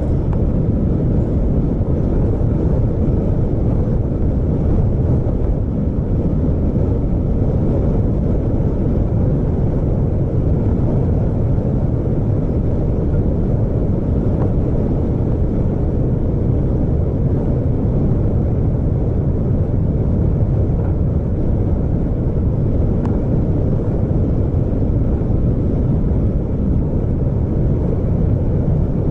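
Vehicle driving along a road: steady low rumble of engine and road noise.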